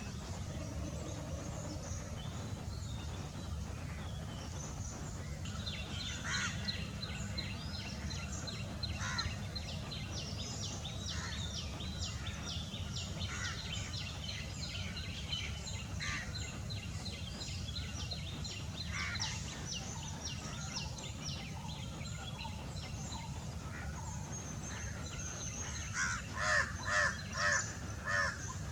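Mixed wild bird calls and chirps, with a steady high-pitched note over most of the stretch. Near the end come four loud, harsh calls in quick succession.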